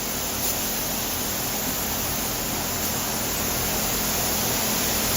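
Compressed-air paint spray gun hissing steadily as it lays on a thick second coat of paint, growing slightly louder.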